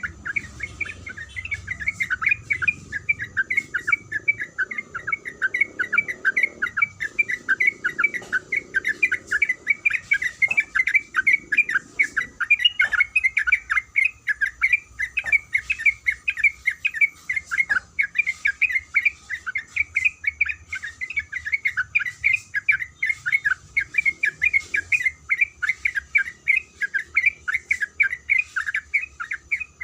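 Sooty-headed bulbul (trucuk) singing a long unbroken run of quick 'kuik kuik' notes, several a second.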